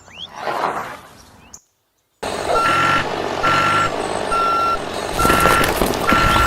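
Vehicle reversing alarm beeping steadily at one pitch about once a second over a continuous mechanical rumble, starting after a brief silence about two seconds in; the sound suits a model construction truck or tractor backing up. A short soft rustling swell comes before the silence.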